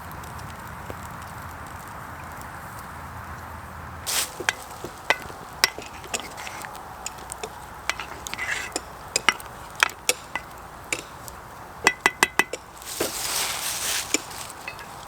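Cooking utensils clinking and knocking against cookware in scattered single strokes, with a quick run of taps near the end followed by a brief hiss.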